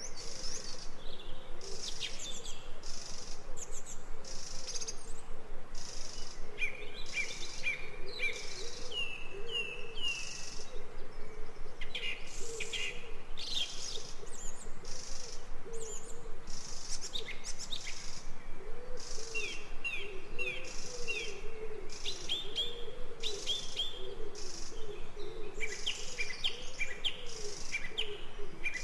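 Forest ambience of several birds chirping and singing in short, repeated phrases, over a continuous low wavering call or hum underneath.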